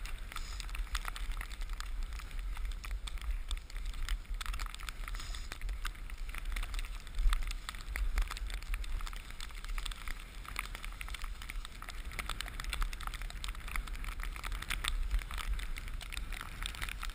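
Cross-country skis sliding over snow with a dense run of small crisp crackles and clicks, and a louder knock about seven seconds in, over a steady rumble of wind on the microphone.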